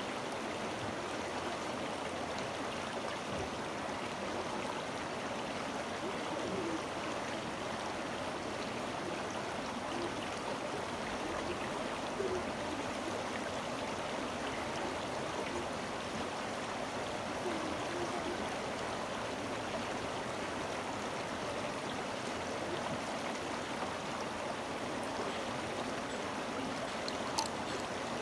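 A stream running steadily, with a light click near the end.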